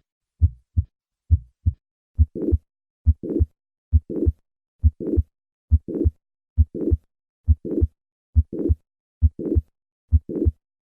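Heart sounds at about 70 beats a minute: for the first two beats only the normal first and second sounds, then a murmur that starts in mid-systole and builds up to the second heart sound on every beat. This is a crescendo late-systolic murmur of mitral regurgitation from mitral valve prolapse.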